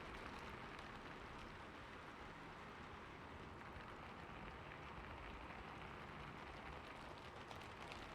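Heavy rain falling steadily, an even hiss with faint ticks of single drops scattered through it.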